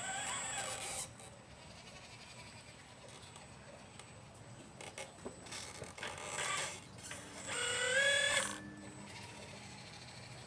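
Small electric motors of a 1/12-scale RC excavator whining in short bursts, the last one rising slightly in pitch as it speeds up.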